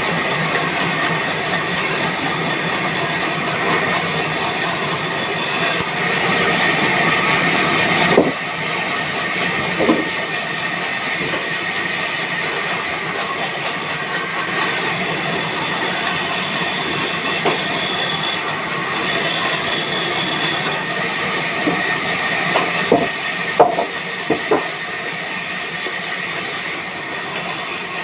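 Sawmill machinery running with a loud, steady hiss, changing abruptly several times, with a few short knocks near the middle and toward the end.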